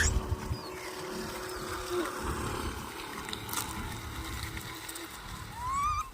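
Monkeys squeaking, with short high chirps and one rising squeal near the end, over a low rumbling background.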